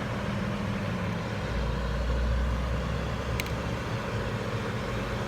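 A vehicle engine idling steadily, with a deeper low rumble swelling for a second or so near the middle and two faint clicks.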